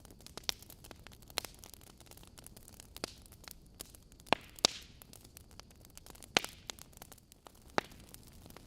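Logs burning in a fireplace, crackling: irregular sharp pops and snaps over a soft hiss. Several louder pops stand out in the middle and later part.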